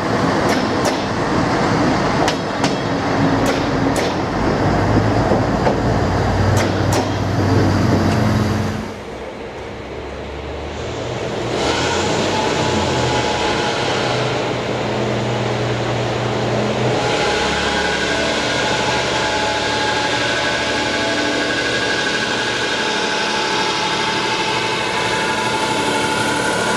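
Railway carriages being shunted through the station, wheels clicking sharply over rail joints and points with a locomotive's engine running. About nine seconds in it cuts off, and a second train's engine starts running steadily, at a slightly lower level.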